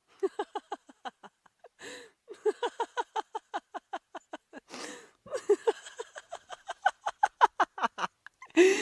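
A person laughing heartily in three bouts of rapid 'ha-ha-ha' pulses, about five or six a second, with a gasping breath between bouts.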